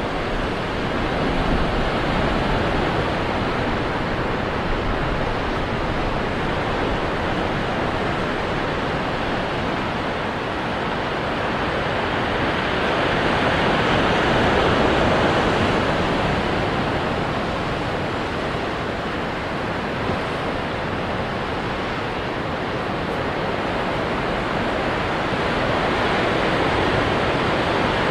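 Ocean surf washing onto rocks: a continuous roar of breaking water that swells and eases slowly, loudest about halfway through.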